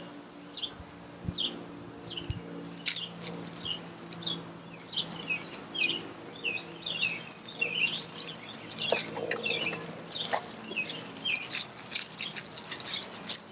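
Small birds chirping in many quick, short calls. There are scattered sharp clicks and crinkles from packaging being handled.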